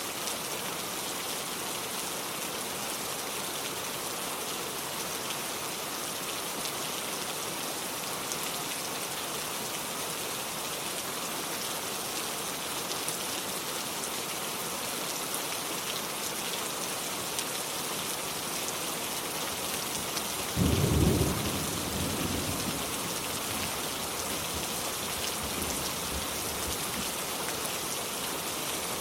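Steady rain falling, with a roll of thunder about two-thirds of the way through: a sudden low rumble, loudest at its onset, that fades away over several seconds.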